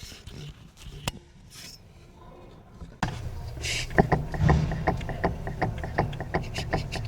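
Mercedes C63 S AMG (W205) front end being bounced by hand. From about three seconds in there is a run of quick light knocks and creaks from the offside front suspension over a low rumble: the slight knocking noise that is traced to a worn offside front shock absorber. Before that there are a few faint handling clicks.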